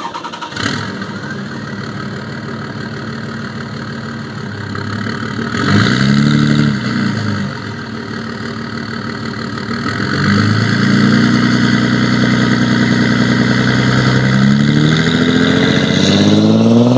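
Cummins 5.9-litre turbo-diesel inline-six in a 2005 Dodge Ram 2500, running through a 4-inch downpipe into a 5-inch turbo-back exhaust with muffler. It idles, gets one quick rev about six seconds in, then is held at a raised rpm from about ten seconds in before dropping back and rising again near the end.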